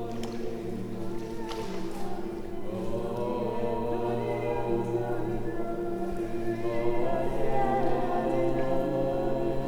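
A group of voices singing together, holding long overlapping notes over a low steady drone, swelling a little about seven seconds in.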